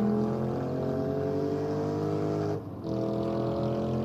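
Police car engine accelerating hard, its pitch climbing steadily. It shifts up once about two and a half seconds in, then climbs again.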